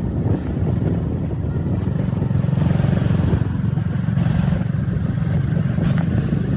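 Motorcycle engine running steadily while riding, a continuous low rumble with road noise.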